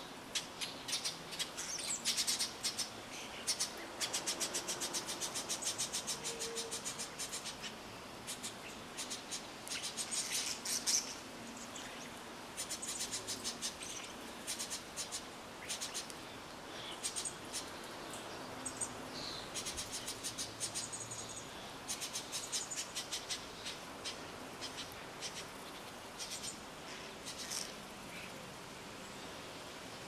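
Birds calling: repeated short runs of rapid, dry, high-pitched ticks and chatters, with a few thin high whistled notes in the second half.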